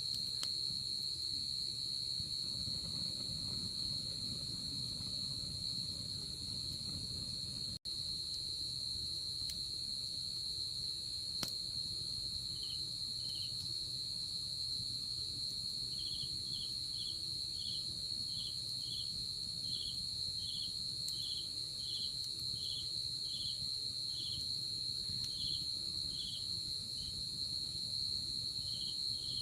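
Night insects calling: a steady, high, unbroken trill. About twelve seconds in, a second insect joins with regular chirps, about one and a half a second.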